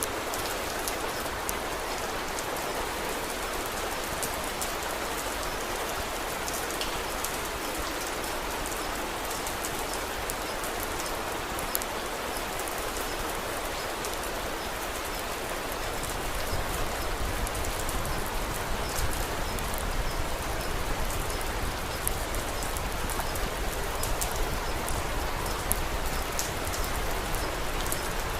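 Steady rain falling, with many faint, sharp ticks scattered through it. About halfway through, a low rumble joins and the sound grows a little louder.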